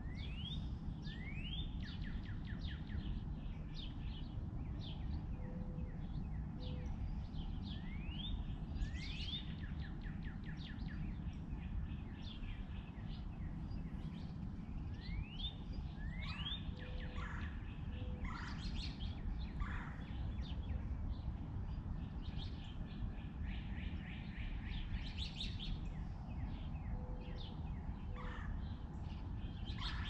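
Small birds chirping and calling, with many quick rising chirps and rapid call series throughout. A soft low two-note call comes about three times. Under it all is a steady low background rumble.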